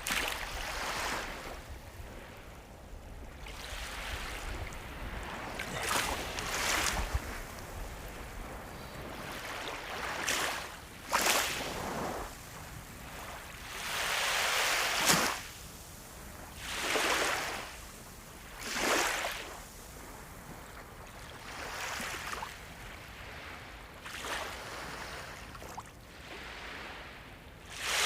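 Sea waves breaking and washing up on the shore, a rush of surf swelling and fading every few seconds.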